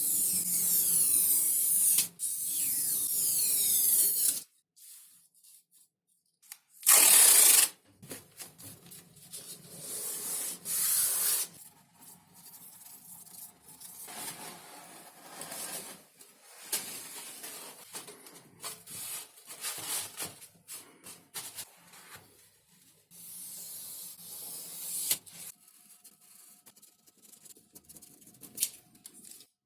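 Hand work on XPS foam sheet. First comes about four seconds of steady rubbing, then a short loud hiss about seven seconds in, then irregular scrapes, rustles and clicks.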